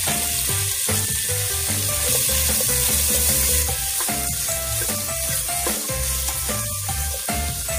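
Diced red onion and garlic sizzling as they fry in a pot, a steady high hiss, with background music carrying a repeating bass line underneath.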